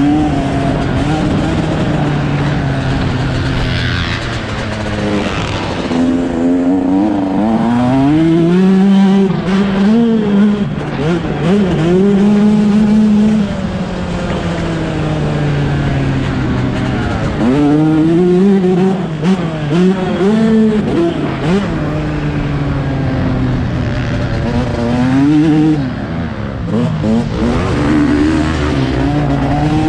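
Yamaha YZ125's two-stroke single-cylinder engine revving up and dropping back again and again as the throttle is worked and gears change while riding.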